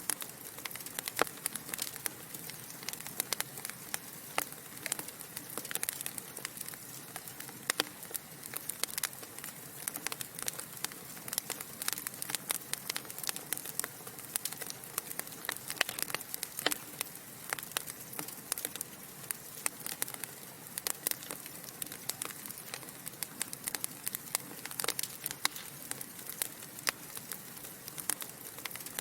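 Burning logs in a fireplace crackling: frequent irregular sharp pops and snaps over a steady soft hiss.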